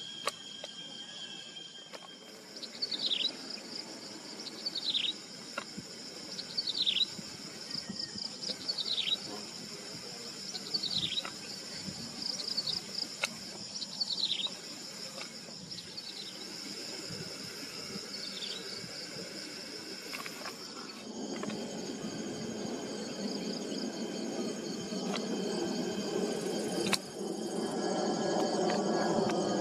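Insects chirring steadily and high, with a bird repeating a short falling call about every two seconds, eight times, through the first two-thirds. Near the end a low rushing noise grows louder under the insects.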